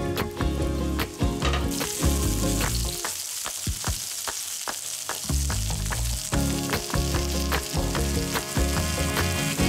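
Brown mushrooms sizzling as they fry in hot olive oil in a frying pan. The sizzle starts about two seconds in and holds steady, over background music.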